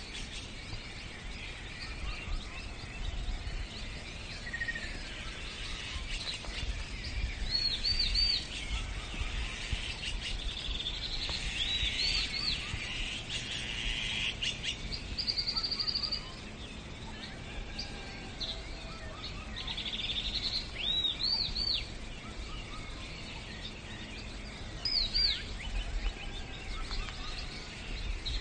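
Songbirds calling: short phrases of three or four quick, high chirps repeating every few seconds over a steady background hiss of outdoor ambience.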